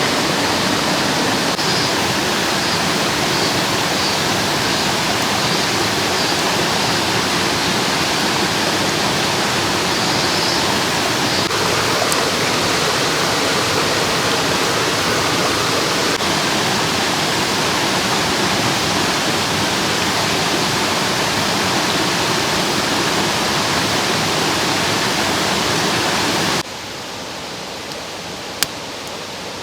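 Mountain stream water rushing steadily. Near the end it cuts suddenly to a quieter rush, with two sharp clicks.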